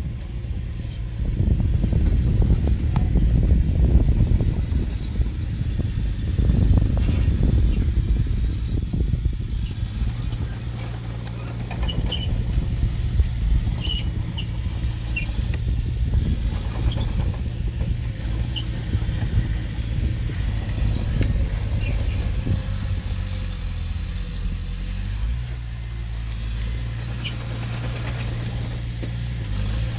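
Diesel engine of earthmoving machinery running under changing load, rougher and louder for the first several seconds, then settling to a steady drone. Short high metallic squeaks come and go through the middle.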